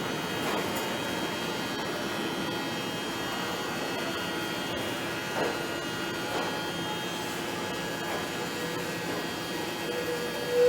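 Steady hum of an electric train running slowly, with several held tones and a few faint knocks. Near the end a loud horn blast begins.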